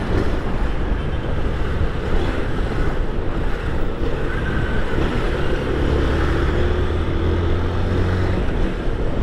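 Honda CG 160 Titan's single-cylinder four-stroke engine running as the motorcycle rides, with wind noise on the microphone.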